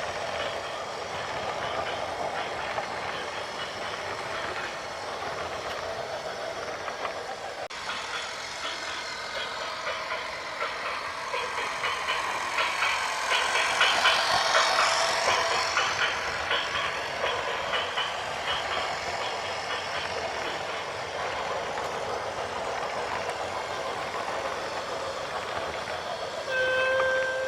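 Heavy vehicle running with a continuous rattling clatter that grows louder around the middle, then a short horn toot near the end.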